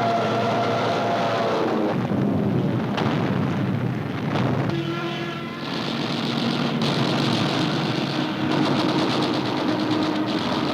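Wartime newsreel sound effects of propeller aircraft engines droning, their pitch falling over the first two seconds, then a rough engine din with scattered gunfire.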